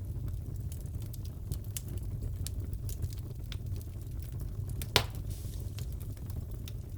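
Wood fire crackling in a fireplace: a steady low rumble with scattered small crackles, and one louder pop about five seconds in.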